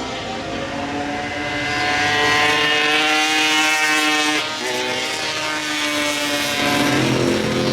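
Racing motorcycle engine at high revs, accelerating with its pitch climbing, dropping briefly about four and a half seconds in at a gear change, then climbing again.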